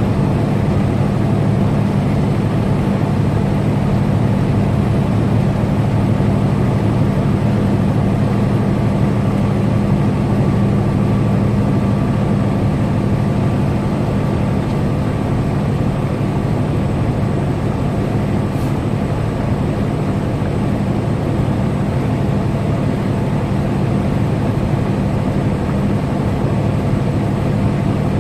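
Semi-truck's diesel engine and road noise at steady highway cruise, a constant low drone with no change in speed.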